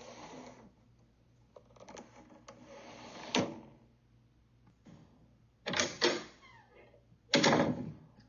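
A window sliding in its frame and a door being opened and closed: stretches of scraping slide and several sharp clicks and knocks, the loudest knocks in the second half.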